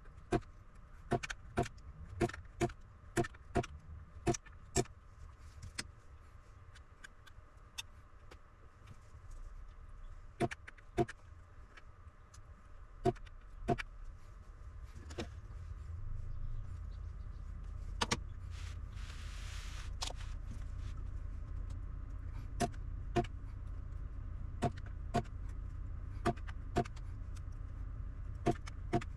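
Irregular sharp clicks and taps, about one or two a second, over a steady low hum. A short hiss comes about 19 seconds in.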